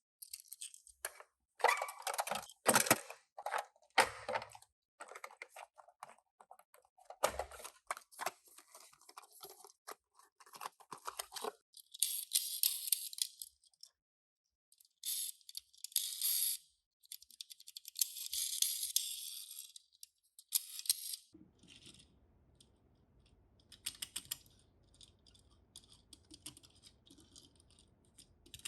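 Toy packaging and small diecast toy cars being handled: irregular clicks and taps, with bursts of crinkly plastic and cardboard rustling through the middle. Toward the end there are only scattered clicks over a faint low hum.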